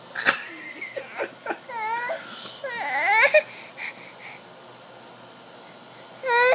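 A baby making weird squeaky vocal noises: short clicks, then a few high squeals that slide down and up in pitch, and a loud cry-like squeal near the end.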